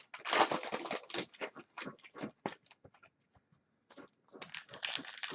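Trading card pack wrappers crinkling and tearing as packs are ripped open, in dense rustling for about two and a half seconds, a pause, then more rustling from about four seconds in.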